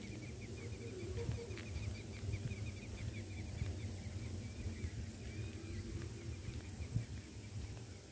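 A bird calling in a fast series of short, high chirps, several a second, with a brief break about halfway through, over a steady low rumble.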